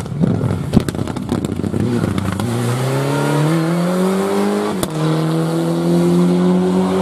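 Rally car engine pulling hard: sharp crackles and clicks at first, then the engine note climbing steadily, a gear change about five seconds in, and the note carrying on in the next gear.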